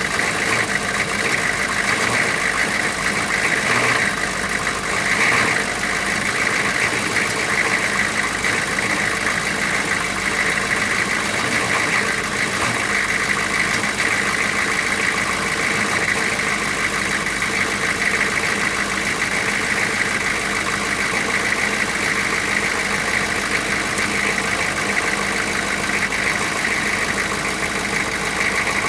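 Chevrolet 6.5-litre turbo-diesel V8 idling steadily after being revived from six years of sitting, running smooth.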